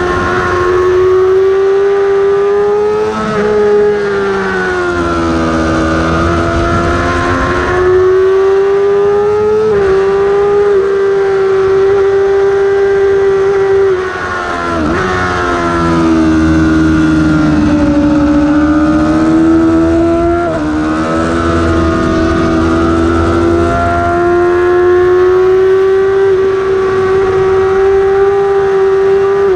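Yamaha R6 inline-four sport-bike engine at high revs, heard onboard at racing speed. Its high pitch holds steady and dips several times, deepest about halfway through, as the rider shifts gear and backs off for corners, then climbs again.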